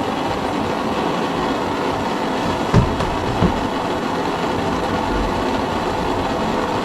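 Steady machine-like whirring noise, with two short low thumps just before three seconds in and again about half a second later.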